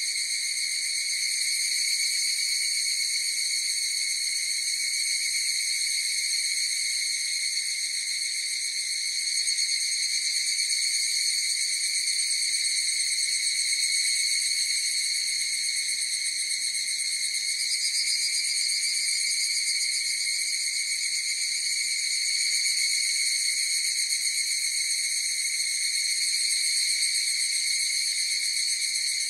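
Chorus of higurashi (evening cicadas, Tanna japonensis) calling: a steady, shrill, unbroken high-pitched drone.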